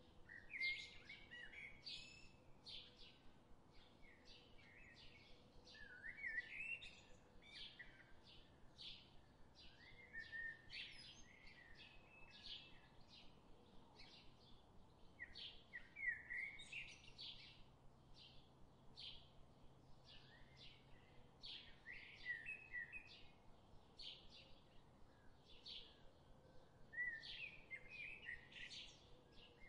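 Faint birdsong: short chirps repeated over and over, with a brief warbling phrase every five or six seconds.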